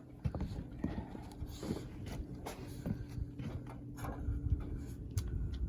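Irregular footsteps, knocks and thumps from work on a mobile home roof, some sharp clicks among them, over a faint steady low hum.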